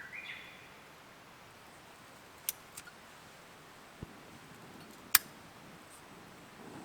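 A few separate sharp clicks over a quiet background, the loudest about five seconds in, with a brief rising chirp-like tone at the very start.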